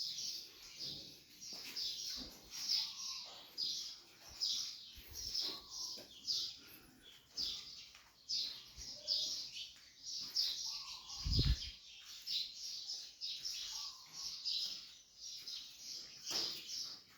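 Birds chirping over and over in short, high calls, with one low thump about eleven seconds in.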